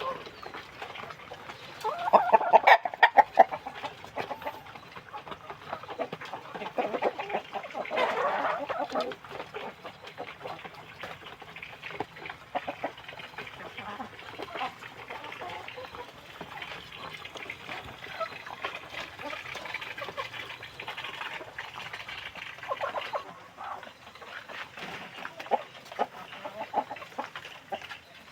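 A flock of Indonesian village chickens (ayam kampung) clucking continuously, with louder flurries of calls about two seconds in and again around eight seconds in.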